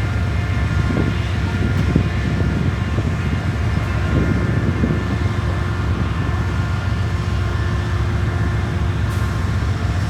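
Diesel-electric freight locomotive engine idling: a steady low rumble with a constant hum, roughening briefly a couple of times.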